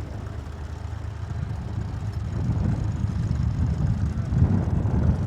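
Tractor engine running, with a low rumble that grows louder over the second half.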